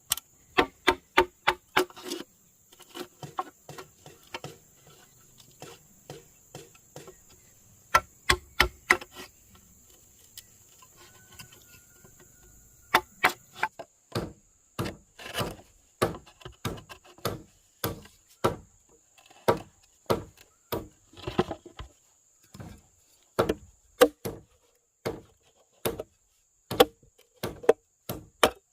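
Sharp blows of a tool striking wood, over and over in irregular runs, sometimes several a second. The blows pause for a few seconds in the middle.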